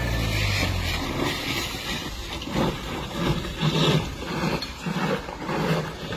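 A vehicle engine slowing and fading out in the first second, followed by a run of short, regular pulses about every half second.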